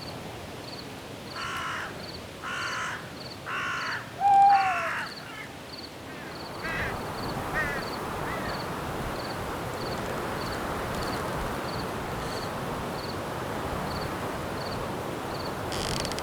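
A crow cawing four times, harsh calls about a second apart, the last with a falling note and the loudest. After about six seconds a steady rush of wind in the trees rises. Under it all, a cricket chirps in short regular pulses.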